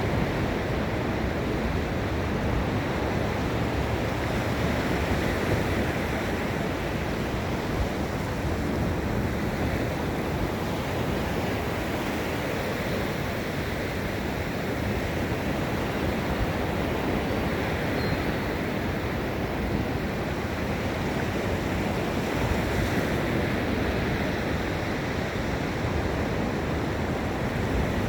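Ocean surf: waves breaking and washing up the beach in a continuous rush that swells and eases gently.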